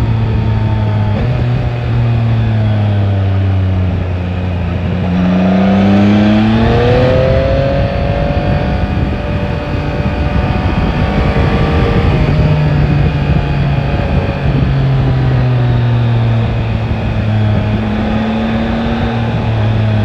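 Yamaha Tracer 9 GT's 890 cc inline-three engine under way, with wind rushing past. The engine note sinks over the first few seconds, climbs steeply about five seconds in as the bike accelerates, then holds fairly steady.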